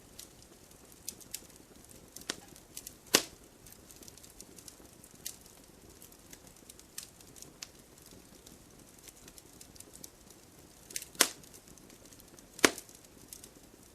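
Campfire burning and crackling: irregular sharp pops and small ticks over a faint hiss, with the loudest pops about three seconds in and twice near the end.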